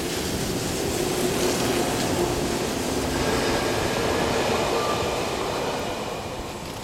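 Electric trains running past at close range: the Odakyu 20000 series RSE's cars rolling by, then a silver commuter train on the near track, with a steady rumble of wheels on rail and a faint pitched whine. The sound fades near the end.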